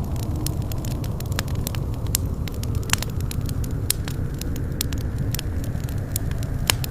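Wood fire crackling in a fireplace: a steady low rumble of burning with many sharp, irregular pops and snaps, a few louder ones about three seconds in and near the end.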